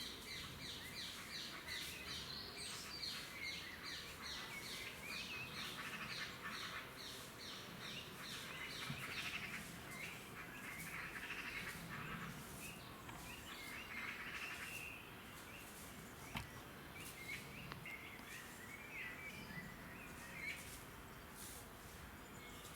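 Songbirds singing: a fast series of short descending notes, about three a second, for the first ten seconds or so, then patches of warbling and scattered chirps.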